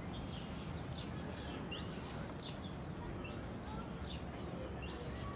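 Small birds chirping: short rising and falling calls about once a second, over a steady low background rumble.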